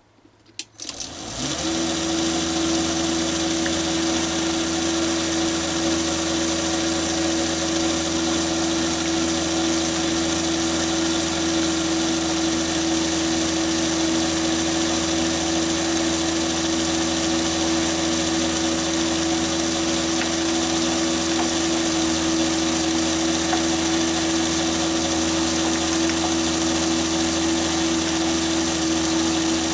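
Chinese mini lathe switched on about a second in, its motor spinning up quickly to a steady run with a low hum and a high, steady whine.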